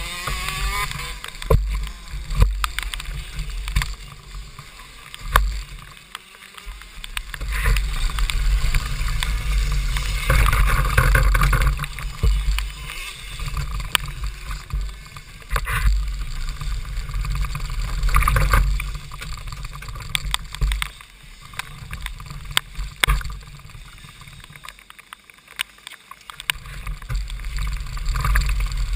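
Onboard sound of a KZ2 shifter kart with a 125 cc two-stroke engine, driven in heavy rain: mostly low rumble and wind and water spray on the camera microphone, with the engine muffled underneath. Many short ticks of rain and spray hit the microphone, and the sound swells and fades, dropping away briefly twice.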